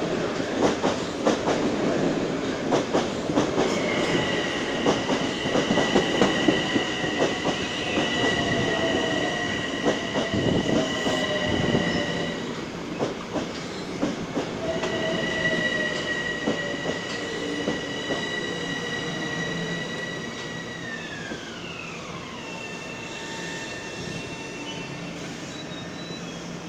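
Metro-North M7 electric multiple-unit train pulling into a station platform, its wheels clicking over the rail joints. A high steady whine, broken briefly midway, falls in pitch about 21 seconds in as the train slows to a stop.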